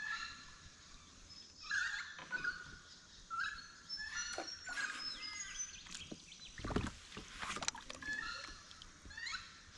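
Birds giving repeated short calls, on and off, with a single dull knock about seven seconds in.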